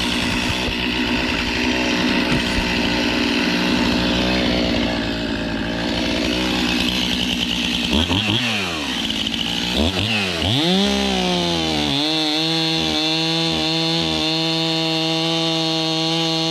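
Two-stroke chainsaw cutting wood under load. About eight seconds in, the engine pitch falls and climbs back twice, then settles into a steady high-revving note.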